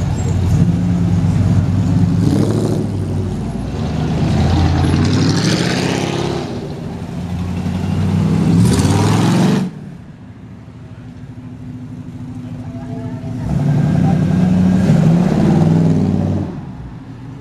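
Engines of classic cars pulling away and driving past one after another, among them a late-1960s Ford Ranchero, the engine pitch rising and falling as they rev. The sound drops off abruptly about ten seconds in, and another car drives by near the end.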